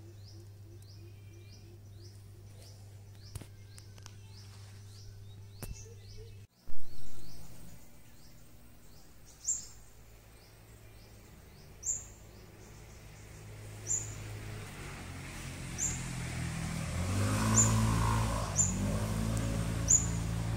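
Outdoor garden ambience with small birds chirping: quick repeated high chirps at first, then a single sharp high chirp about every two seconds. A sudden loud knock comes about a third of the way in, and a low rumble swells in the second half.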